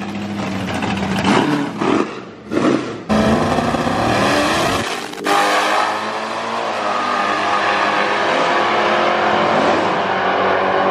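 Ford Mustang GT's 5.0 V8 revving in a few short blips while staging. The sound then turns to loud, sustained engine noise as the cars launch and pull away down the quarter mile.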